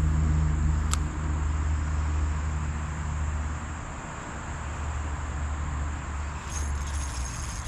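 A low, steady engine drone that slowly fades away near the end, over the high, continuous buzz of insects.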